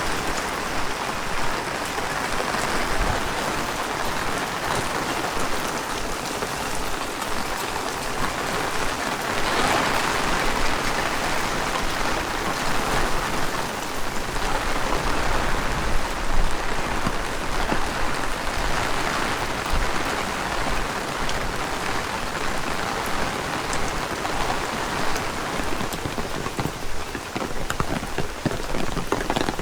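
Heavy rain falling steadily, swelling louder for a few seconds at a time, most strongly about ten seconds in.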